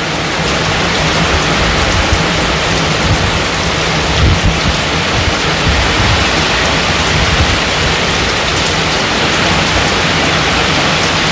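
Heavy monsoon rain pouring steadily onto corrugated tin roofs and a waterlogged yard, with irregular low rumbling gusts of wind on the microphone.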